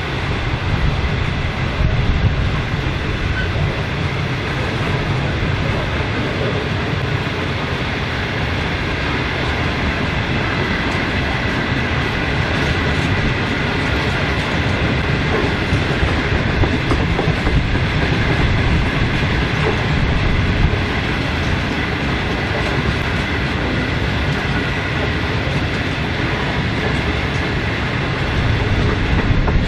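Loaded grain hopper wagons rolling past close by: a steady, loud rumble of steel wheels on the rails.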